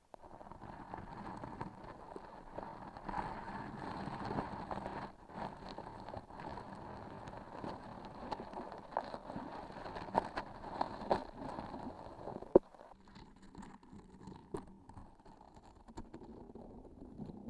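Sticky, transparent filled objects squeezed and handled close to the microphone: a dense, continuous texture of small sticky and rustling noises with scattered sharp clicks. A loud click comes about twelve and a half seconds in, and after it the texture is quieter and sparser.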